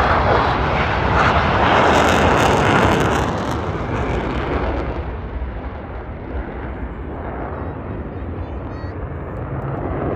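F-16 fighter jet passing by, loud for about the first three seconds, then fading away as it departs.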